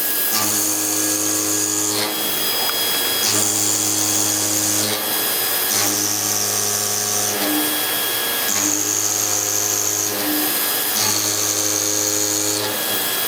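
Heavy metal-cutting machine tool running in a repeating cycle about every two and a half seconds. Each cycle is a steady hum with a high whine, then a short, rougher noisy stretch. Five such cycles are heard.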